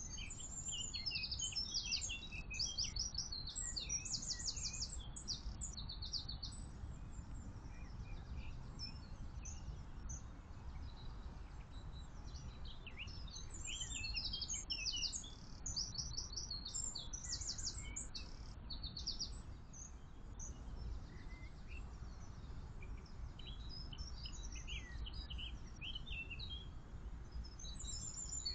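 Songbirds singing in bursts of rapid, high, repeated notes, with a steady low rumble underneath.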